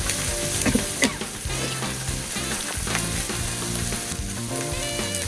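Meat sizzling steadily on a barbecue grill over a wood fire.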